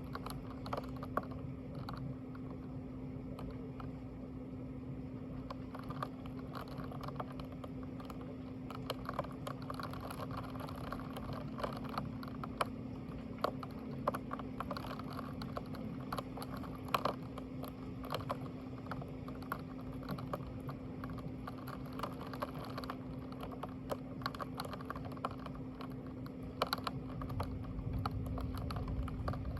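Computer keyboard typing: irregular light key clicks over a steady low electrical hum.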